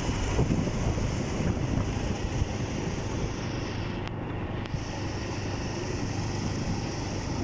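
Bajaj Pulsar 150 single-cylinder motorcycle engine running steadily while riding, with wind buffeting the microphone.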